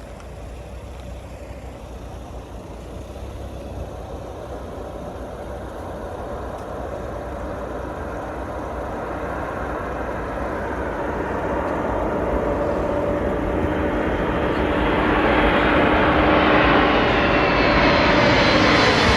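An engine approaching, its noise growing steadily louder and brighter throughout, with a faint steady hum in it.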